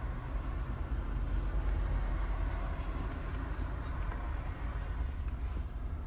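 Nissan Altima engine idling steadily, a low even rumble, running smoothly after a misfire caused by a loose connector has been fixed by refitting it.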